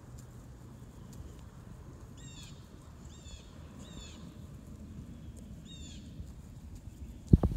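A bird calling about five times, each call a short cluster of falling notes, over a low steady outdoor rumble. Near the end, a burst of loud thumps starts suddenly.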